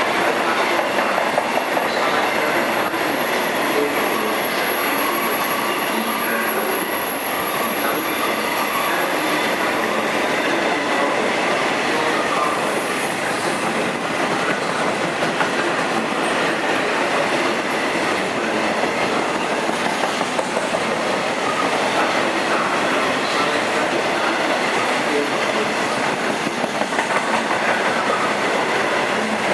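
Train moving past on the rails: a steady, loud run of wheel and rail noise with clickety-clack, and a thin high whine over the first ten seconds or so.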